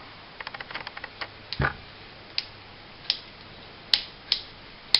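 Small metal parts of a compact 1911-style pistol's frame clicking as they are handled and worked while being oiled. A quick run of light clicks, then a heavier knock, then about five single sharp clicks at uneven intervals.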